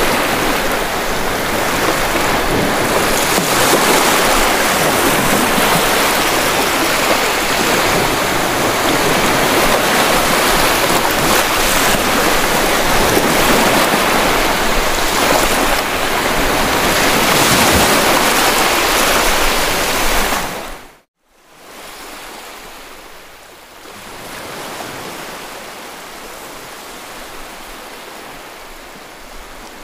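Steady rush of sea waves and wind on the microphone, loud for about twenty seconds, then cutting out abruptly and returning much quieter.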